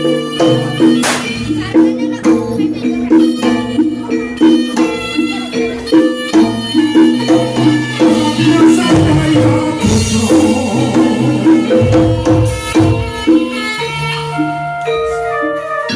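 Javanese gamelan playing jaranan music. Metallophones and gongs ring out a repeating melody over drumming, with rattling percussion.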